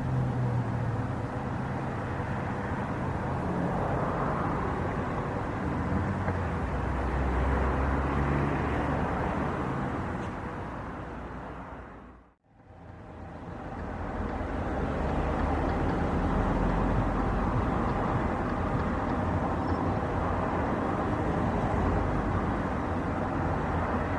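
Steady jet airliner engine noise, a broad rumble with a faint steady tone. About halfway through it fades out to near silence and then fades back in.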